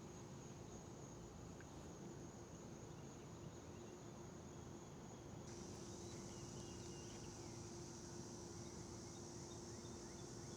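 Faint, steady chorus of trilling insects, changing to a fuller, slightly higher-pitched buzz about five seconds in, over a faint low steady hum.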